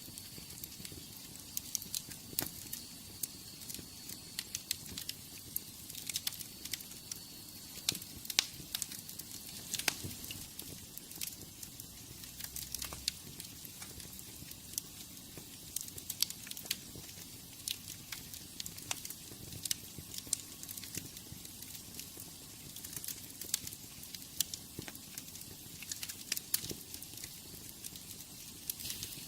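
Wood fire burning in a fireplace: a steady soft hiss with irregular sharp crackles and pops.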